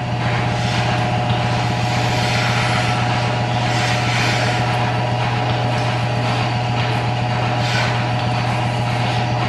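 Milking-machine vacuum pump running steadily: a constant hum with a hiss over it while a cow is being milked.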